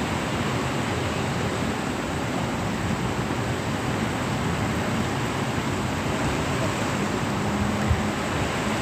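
Light rain falling: a steady, even hiss, with a short thump near the end.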